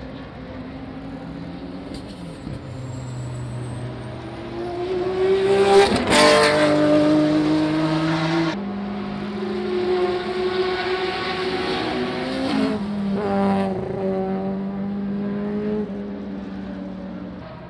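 Historic racing car engines running at speed on a circuit, their notes rising and falling through the gears. The sound is loudest as a car passes close about six seconds in, and it changes abruptly twice, once about eight and a half seconds in and again near fourteen seconds in.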